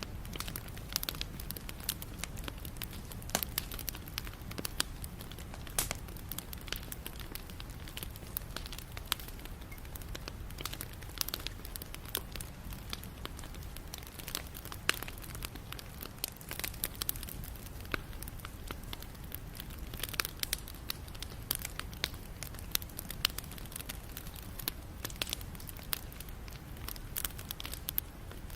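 Wood fire burning: irregular sharp crackles and pops of burning wood over a steady low rumble of flame.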